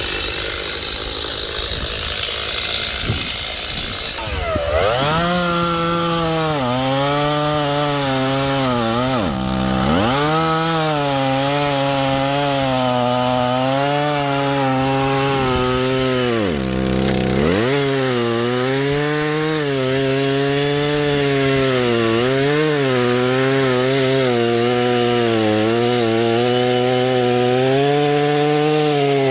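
Small two-stroke chainsaw running at full throttle and cutting firewood, its pitch wavering and sagging under load. It comes up to speed about four seconds in, and its revs drop sharply twice before climbing back.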